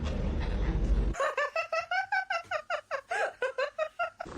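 A rapid, high-pitched laugh: a quick run of about fifteen short 'ha' notes, roughly five a second, starting about a second in. Before it comes a low rumbling noise that cuts off abruptly.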